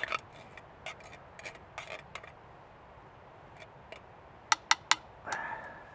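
Metal cutlery clinking on a metal tin or cook pot while eating: light scattered clicks, then three sharp ringing clinks in quick succession about four and a half seconds in.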